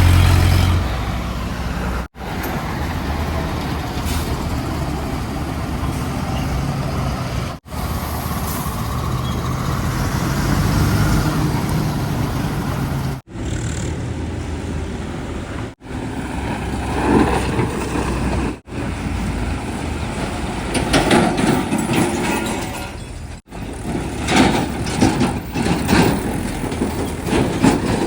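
Diesel engines of a JCB 3DX backhoe loader and tipper trucks running, heard in a string of short clips that cut off abruptly every few seconds. The later clips carry a run of sharp knocks and clatter over the engine noise.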